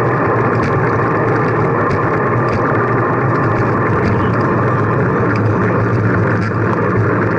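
Steady rushing wind and road noise while riding a bicycle, with wind on the microphone.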